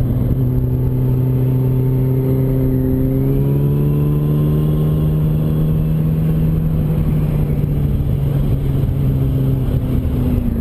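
Yamaha R1 sport bike's inline-four engine pulling steadily, its pitch rising gradually as it accelerates, then holding and dropping near the end as the throttle eases off, with wind rumbling over the rider's microphone.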